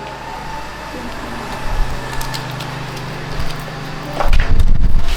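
A steady low mechanical hum, with a short loud low thump about two seconds in and a louder low rumble for about a second near the end.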